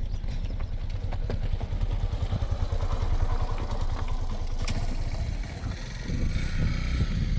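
A vehicle driving, with a steady low engine and road rumble and some rattling clatter.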